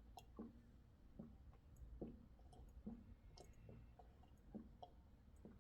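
Near silence with faint soft clicks, about one or two a second, over a low hum.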